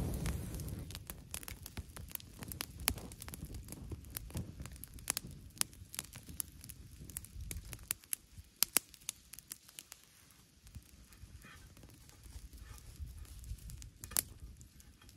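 Wood fire crackling, with irregular sharp snaps and pops, over a low rumble that fades about halfway through.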